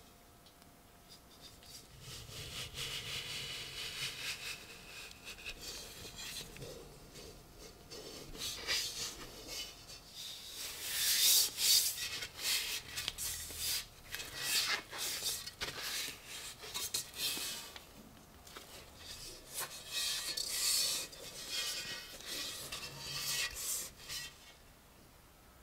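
Rubbing and scrubbing strokes over the steel shell of a WW2 German M40 helmet, in irregular runs with short pauses, loudest about halfway through.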